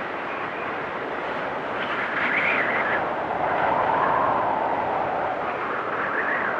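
Storm wind blowing hard with a whistling howl. A higher whistling gust rises about two seconds in, a lower swell fills the middle, and another whistle comes near the end.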